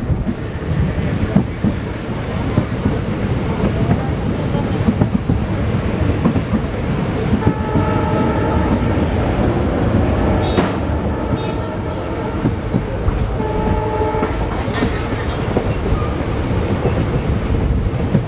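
Train running with a steady rumble and rail clatter. From about seven seconds in, a train horn sounds in a series of blasts.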